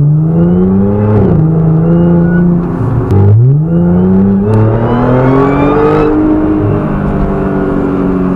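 Audi car engine accelerating hard at full throttle, heard from inside the cabin, in two pulls. The revs climb, drop at a gear change about a second in, then rise steeply again from low about three seconds in and keep climbing. A thin high whine rises with the engine.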